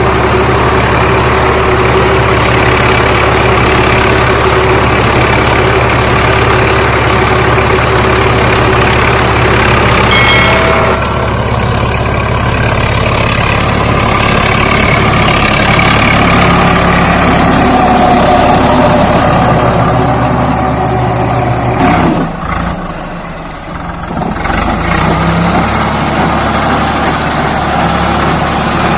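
Swaraj 855 FE tractor's diesel engine running steadily under a rotavator, loud and constant. A brief high tone sounds about ten seconds in, and the engine note dips and changes for a couple of seconds about three-quarters of the way through before settling back.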